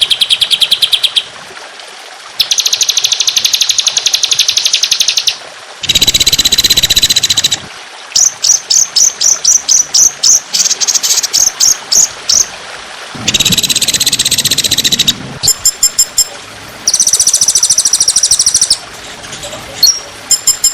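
Songbird song of rapid-fire high trills. Dense rattles of fast, evenly repeated notes last one to three seconds each and alternate with runs of sharp, separate chirps, with short pauses between.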